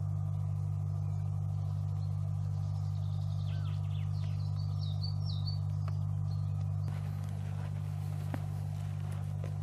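A short run of high bird chirps about halfway through, over a steady low hum. The background changes abruptly about seven seconds in, and a few faint clicks follow.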